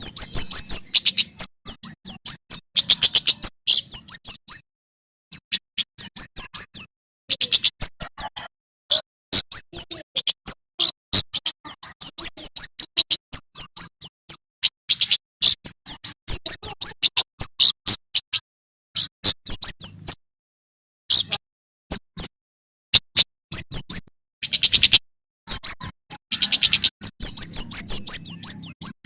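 Male prenjak keres (kemade) singing: rapid bursts of sharp, high chirps and fast trills, broken by short pauses.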